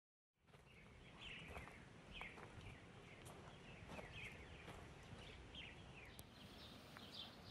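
Faint outdoor ambience with a small bird's short, falling chirps repeating about twice a second over a low rumble; the sound fades in just after the start.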